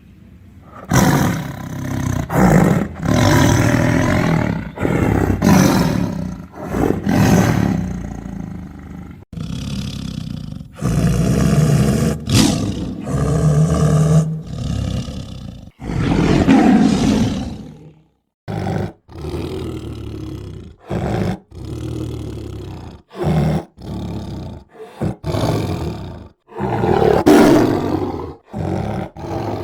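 A tiger roaring again and again: a run of long, loud roars, then after a short break in the middle a string of shorter, quicker roars and growls.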